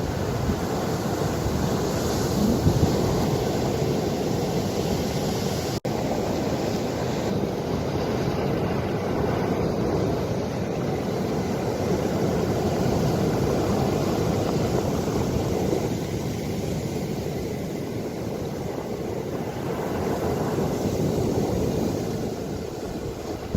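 Ocean waves washing and surging continuously with wind rumbling on the microphone, swelling and easing slowly. There is a split-second dropout about six seconds in.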